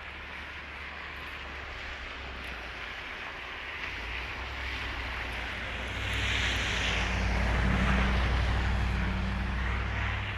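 A motor vehicle going by: a low engine hum that builds from about four seconds in, with tyre hiss rising to a peak at six to eight seconds, then easing off.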